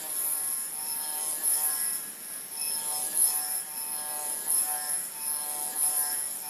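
Spinning gyroscope whirring steadily, with a high hiss and short ringing tones that come and go at several pitches: the twisting noise it makes as it spins.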